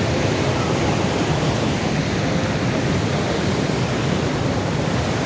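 River rapids and waterfall rushing, a steady, even wash of white water.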